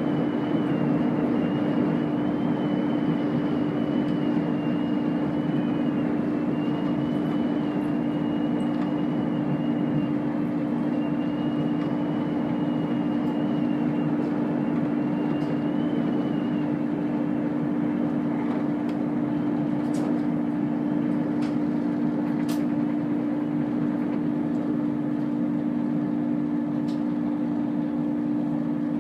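Chiltern Railways diesel train running at speed, heard from inside the carriage: a steady engine drone over rumbling wheel and rail noise. A faint wavering whine fades out about halfway through, and a few sharp clicks come near the end.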